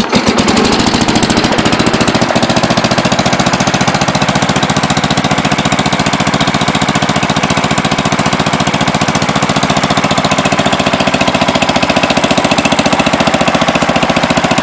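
Allis-Chalmers Big Ten garden tractor's single-cylinder Briggs & Stratton engine catching at once and running steadily with a fast, even beat: it cranks up nice and easy.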